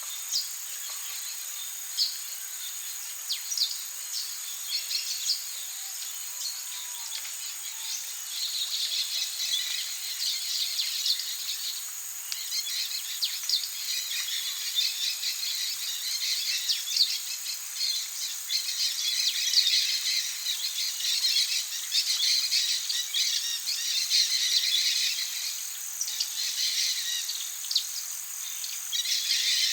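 Amazon rainforest ambience: insects trilling steadily at a high pitch, with a dense chorus of rapid chirps and calls from birds and insects that grows busier about eight seconds in.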